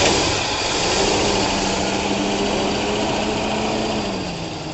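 Ford 302 V8 in a 1971 Bronco running just after its first start in 20 years, held at a fast, steady speed, then easing down a little near the end.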